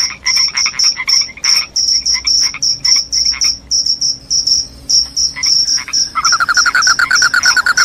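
Crickets chirping: a loud, high-pitched chirp repeating about four times a second, with a lower pulsing call mixed in. About six seconds in, a fast, lower-pitched trill joins.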